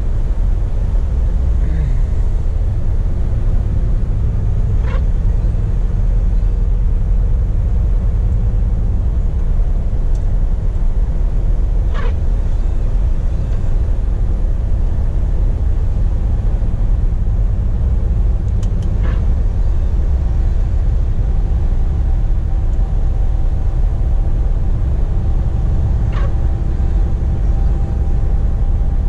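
Scania P420 truck driving along, heard from inside the cab: a steady, loud, low engine and road rumble. A faint tick comes about every seven seconds.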